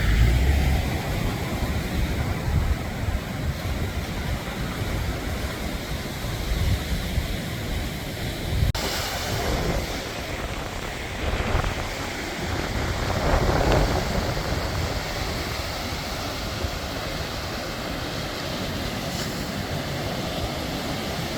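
Wind buffeting the microphone over a steady rush of sea waves. The sound changes abruptly about nine seconds in.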